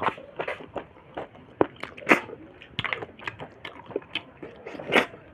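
Close-miked eating of snail and pork: wet chewing with irregular mouth clicks and lip smacks, the loudest about two seconds in and again near the end.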